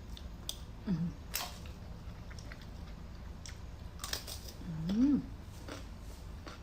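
A person eating a seafood meal close to the microphone: chewing and biting, with scattered sharp clicks. Two short hummed vocal sounds come through, about a second in and near five seconds.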